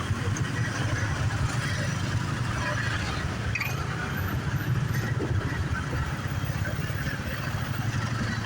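Motorbike taxi riding through city traffic, heard from on the bike: a steady rumble of engine and road noise.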